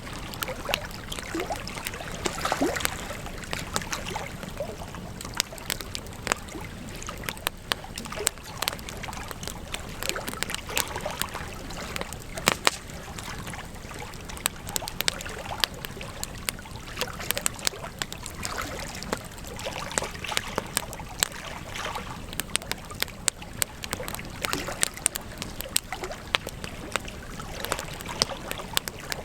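Wood campfire crackling: frequent irregular sharp pops and snaps over a steady hiss of burning.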